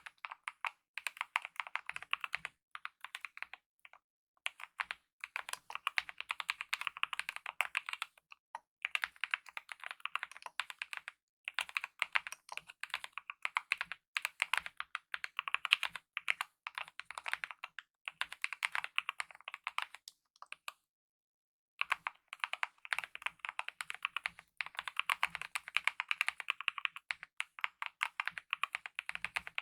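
Fast, continuous typing on a mechanical keyboard with lubed optical red linear switches and DSA-profile keycaps, rapid key clacks in runs with brief pauses, one longer pause about two-thirds of the way in.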